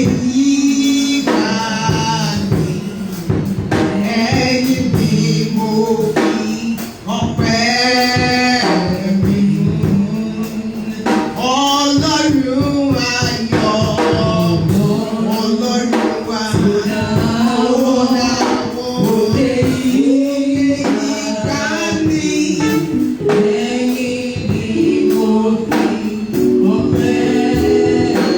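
Live gospel worship singing: voices sing a song over band accompaniment, with tambourine or drum strokes keeping the beat.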